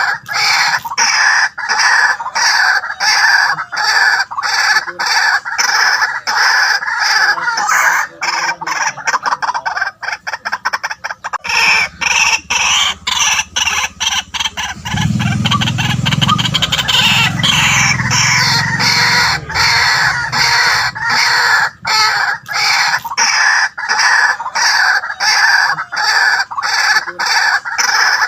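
White-breasted waterhen calling: a loud, long run of harsh repeated notes, about two a second, quickening briefly near the middle. A deeper sound joins for a few seconds past the middle.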